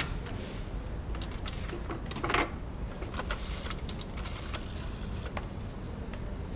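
Scattered light clicks and one short, louder clatter a little over two seconds in, over a steady low hum.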